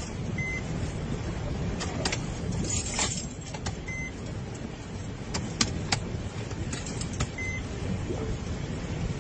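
Steady low vehicle rumble with scattered sharp clicks and taps, and a short high electronic beep that sounds three times, about every three and a half seconds.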